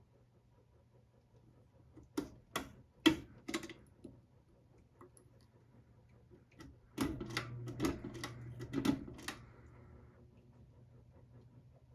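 Hampton Bay Gazebo Plus ceiling fan with a steady low hum. About two seconds in come four sharp clicks, half a second apart. From about seven to nine seconds in, a louder clattering run of clicks plays over a stronger hum.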